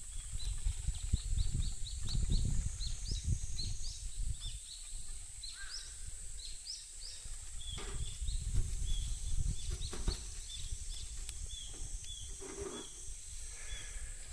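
A small bird calling in repeated short chirps: a quick run of rising notes, several a second, for the first half, then slower falling notes about once or twice a second. Underneath runs a low rumbling noise, with a steady high-pitched hum above it all.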